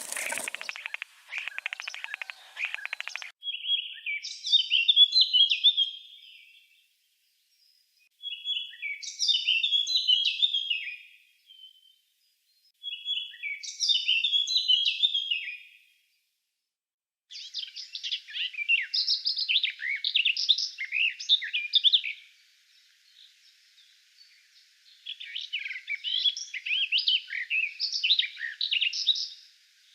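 Birdsong: a short rapid rattle of ticks, then three similar high, warbling phrases of about three seconds each with pauses between. Two longer runs of fast, jumbled chirping notes follow.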